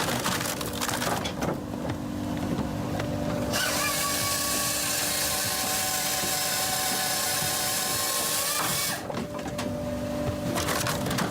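Firewood processor running with a steady machine hum and some knocks, then its saw cutting through a log with a loud, whining hiss for about five seconds, starting a few seconds in.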